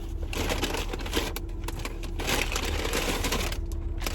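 Paper food wrapper crinkling and rustling in irregular handling bursts as a fast-food breakfast sandwich is unwrapped, louder a little past two seconds in.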